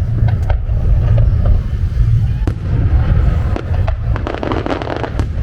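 Fireworks exploding: a steady low rumble with scattered sharp cracks, then a dense run of crackling about four seconds in.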